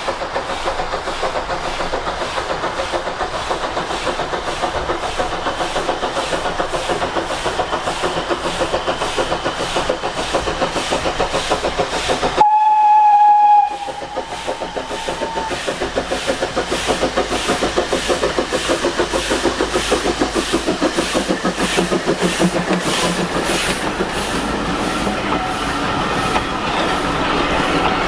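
Heritage-railway locomotive and train running along the line with a fast, even rhythm of beats. About halfway through, the whistle sounds loudly once for about a second.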